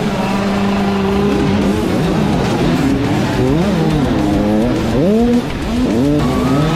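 Motocross dirt bike engines revving up and down over and over, pitch rising and falling a few times a second as the riders work the throttle around the track.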